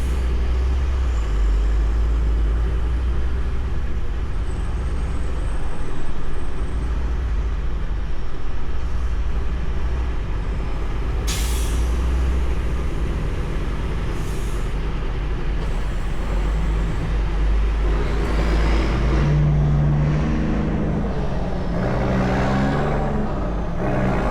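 Semi truck's diesel engine and road noise heard as a steady low drone from inside the cab while driving in slow traffic, with a short air-brake hiss about eleven seconds in and a fainter one a few seconds later. Near the end, a low tone shifts up and down in steps.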